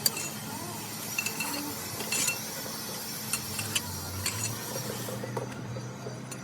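Metal tools and parts clinking and knocking now and then, with brief metallic rings, over a low steady hum.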